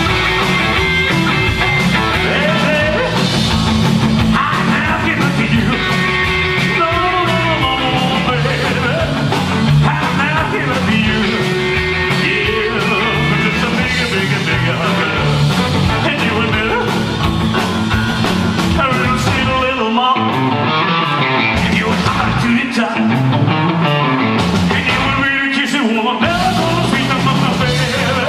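Rock'n'roll band playing live, with singing over the band. The low end drops away briefly twice in the second half.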